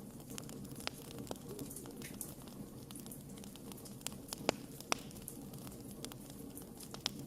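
Wood fire crackling: a steady low rush of flame under irregular small snaps and pops, with two sharper pops about halfway through.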